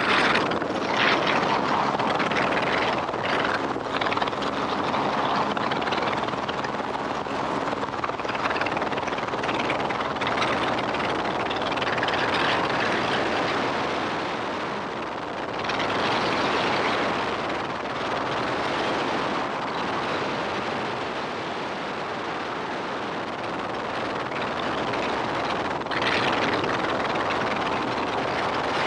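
Helicopter in flight: a steady, loud rush of rotor and engine noise with a low hum underneath. It swells louder about a second in, again about halfway through and near the end.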